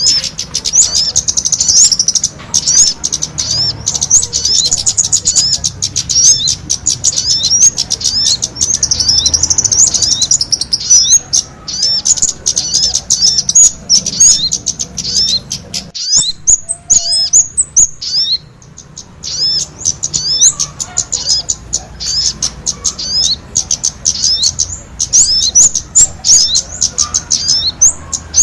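Recorded bird-lure track of small songbird calls, sogon combined with kemade: a busy stream of rapid, high-pitched, hooked chirps, several a second, thinning out briefly about two thirds of the way through.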